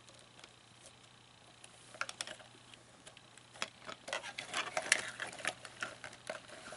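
Irregular small clicks and rattles of hard plastic parts being handled, as an animatronic's gearbox is worked on, sparse at first and busier from about two seconds in.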